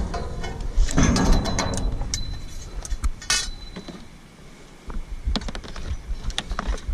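A run of small mechanical clicks, clinks and rattles of things being handled, busiest in the first couple of seconds, easing off around the middle and picking up again near the end.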